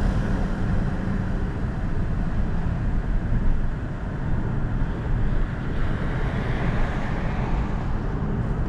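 BMW 540i's B58 turbocharged inline-six, fitted with an aftermarket intake, running steadily while the car is driven, with road and wind noise around it. The level dips briefly about four seconds in.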